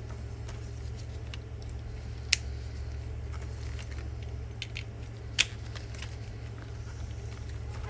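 Two sharp plastic clicks about three seconds apart from the Lexus CT200h key fob being handled, over a steady low hum.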